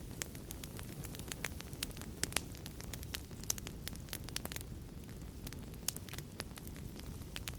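Wood fire in a fireplace crackling: irregular sharp pops and snaps, several a second, over a steady low rumble of flame.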